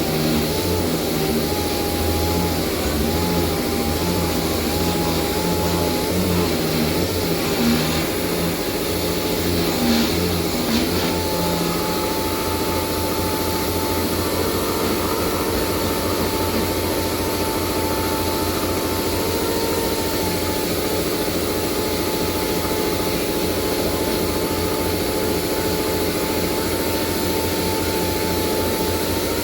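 A motor running steadily with a high whine that wavers in pitch for about the first ten seconds, then holds level, over a low pulsing rumble.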